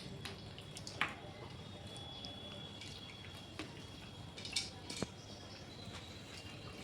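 Wet, sticky clicks and smacks of someone eating chicken curry and rice by hand and chewing, with a sharper click about a second in and a couple more near the five-second mark.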